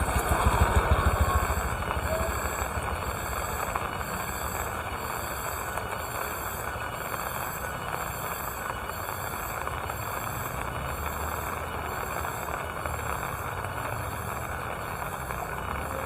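Steady rain falling, with a high-pitched insect call pulsing evenly over it. A low engine-like rumble is louder in the first couple of seconds and then fades back into the rain.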